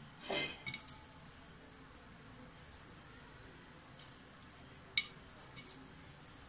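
Popcorn kernels starting to pop one at a time in a covered pan on a high flame: a faint steady hiss with one sharp pop about five seconds in and a few fainter ticks around it.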